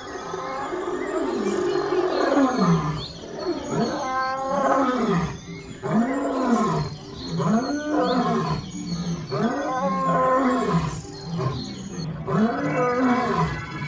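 Lion roaring: a series of loud, repeated calls, each rising and then falling in pitch.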